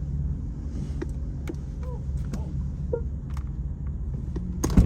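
Car engine running at low speed, a steady low rumble, with scattered light clicks and one sharp knock near the end.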